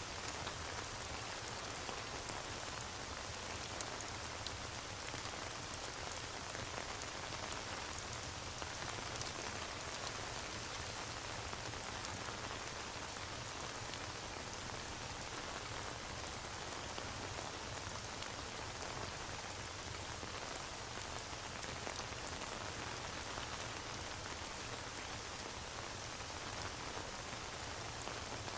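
Steady rain ambience: an even hiss of rainfall with many small, sharp drop ticks, unchanging throughout.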